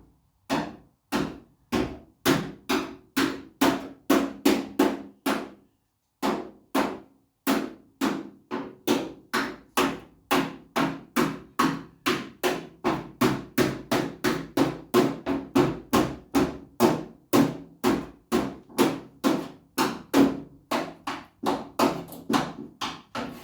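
A magnet clacking onto the steel skin of a Mini pickup's door, over and over at about two knocks a second with one short pause, each knock followed by a brief ring of the panel. It sticks each time, a sign that there is no thick body filler under the paint.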